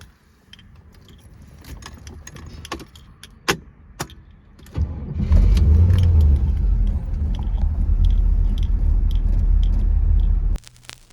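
Keys jangling and clicking, then about five seconds in the 1982 Corvette's Cross-Fire Injection V8 starts and runs steadily; the engine sound cuts off suddenly near the end.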